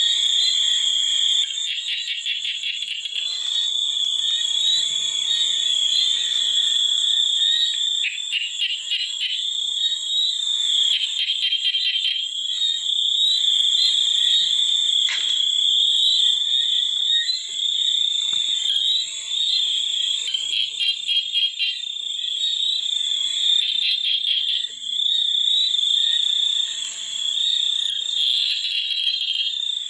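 A chorus of frogs and insects calling together: a continuous high-pitched trill with repeated bursts of rapid pulsed calls.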